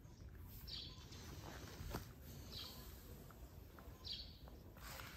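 Faint short, high bird chirps repeating every second or two, over a low background rumble.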